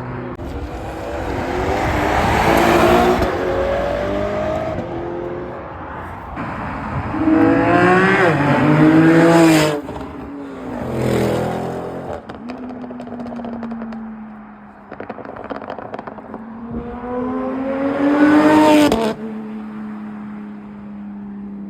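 Cars' engines revving hard and accelerating away one after another, four loud runs that climb in pitch, several breaking off suddenly, with an engine idling steadily between them.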